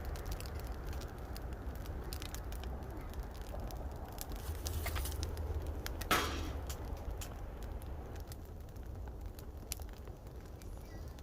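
Wood fire burning in a fire pit, crackling with many small sharp pops over a low steady rumble, with one louder, longer pop and hiss about six seconds in.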